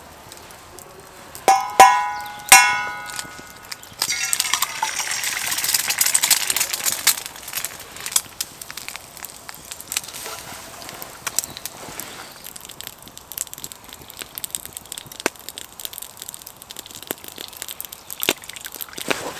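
Metal cookware clanks three times with a bright ring, then a hot pan starts to sizzle about four seconds in, loudest at first and slowly dying down, with scattered pops from the wood fire.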